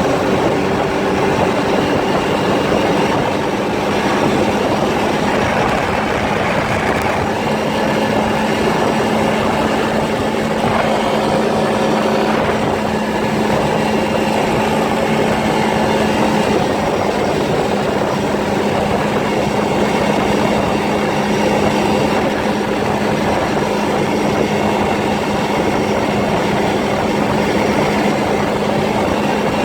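ATV engine running at a steady pitch while riding, mixed with the noise of the ride.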